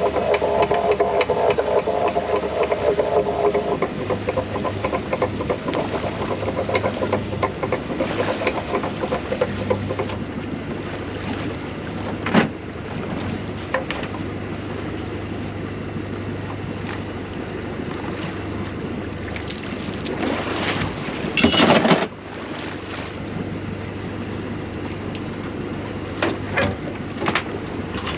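Small fishing boat under way, its engine running with a steady low hum under wind and water noise. A loud rush of wind or splashing comes about three-quarters of the way through.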